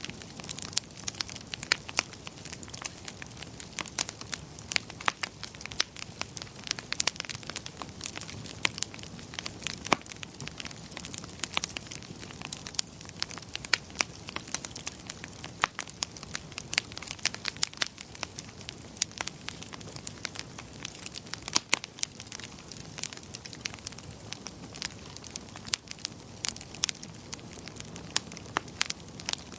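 Wood fire crackling in a fireplace: irregular sharp snaps and pops, several a second, over a soft steady hiss and low rumble.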